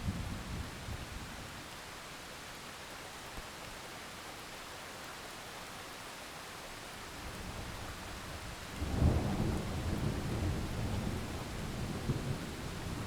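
Heavy rain falling steadily in a thunderstorm. A deep roll of thunder breaks in about two-thirds of the way through and keeps rumbling to the end, after a fainter rumble dies away near the start.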